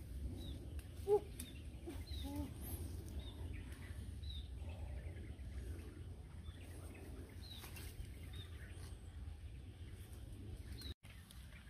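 Outdoor ambience of birds giving short high chirps, most of them in the first half, with a few lower calls near the start, over a steady low rumble.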